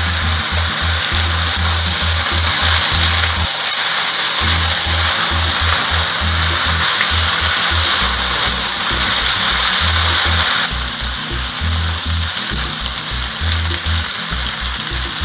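Beef, wide rice noodles and sauce sizzling in a frying pan as they are stir-fried with a spatula; the sizzle drops in level about ten seconds in. Background music with a pulsing bass plays throughout.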